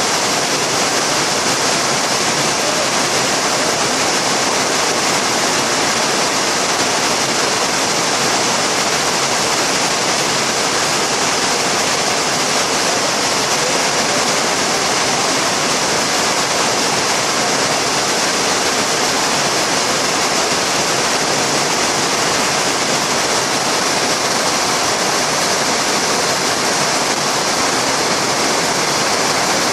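Heavy tropical rain pouring down in a steady, dense hiss, without let-up.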